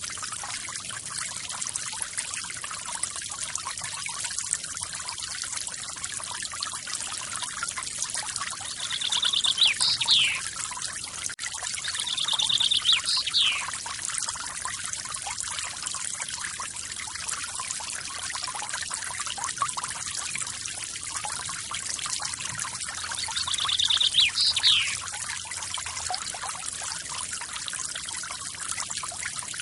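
A waterfall's falling water hisses steadily, mostly high-pitched. A bird calls three times over it, each call a short rapid trill ending in a quick falling note.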